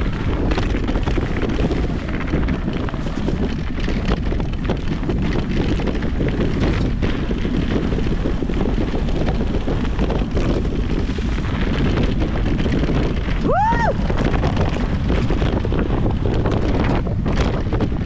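Steady wind rush and rumble on an action camera's microphone while riding an e-mountain bike along a trail. A brief tone that rises and falls comes about thirteen seconds in.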